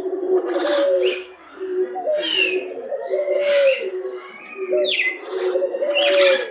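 Aviary birds calling over one another: a low coo repeated steadily, about once every three-quarters of a second, under loud harsh squawks and a few falling whistles.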